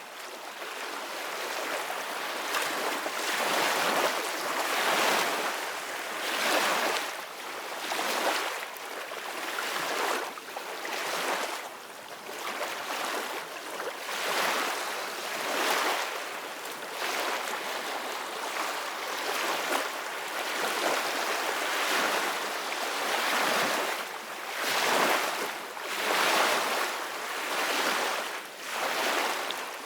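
Ocean waves breaking and washing on a shore, a continuous rush of surf that swells and falls back every second or two. It builds up from quiet over the first few seconds.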